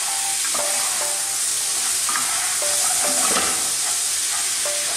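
Aubergine, onion and mung beans sizzling in oil in a non-stick pan, with a wooden spatula stirring and scraping through them. The sizzle is steady, and the stirring adds short scrapes and squeaks.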